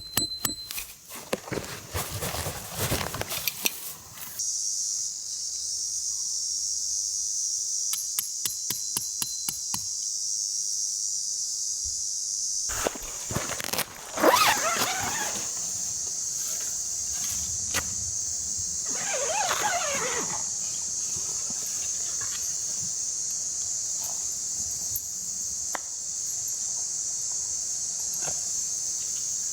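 Steady high-pitched chirring of insects in the grass, with clicks and knocks of gear being handled in the first few seconds. Around 14 and 19 seconds in there are two falling, whistle-like sweeps, the first right after a sharp knock.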